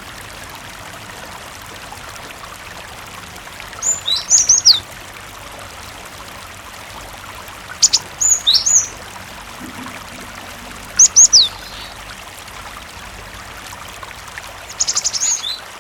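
Cinereous tit (gelatik batu) singing: four short bursts of quick, high sweeping notes, a few seconds apart, over a steady rush of running water.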